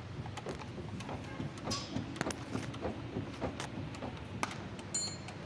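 Mitsubishi Rosa bus steering making an irregular run of sharp clicks and knocks, several a second, over a steady low rumble: the bad steering noise the owner is showing.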